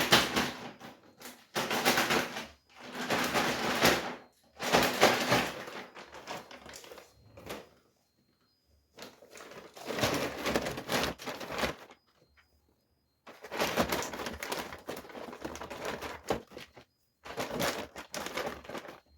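Rustling and clattering as vegetables in plastic bags are handled and put into the fridge, in bursts of a second or two with short pauses between them.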